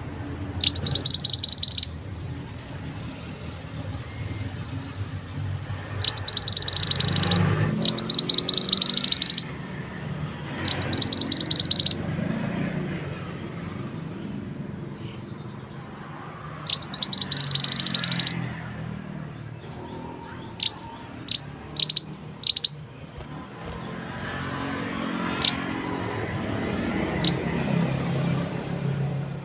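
Burung mantenan singing in tightly rolled, high, rapid trills of a second or two each, repeated several times. Near the end these give way to short, sharp single chips.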